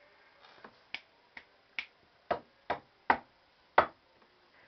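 Small plastic LEGO pieces clicking as they are snapped together by hand: about eight sharp, separate clicks at an uneven pace of roughly two a second, the loudest ones near the end.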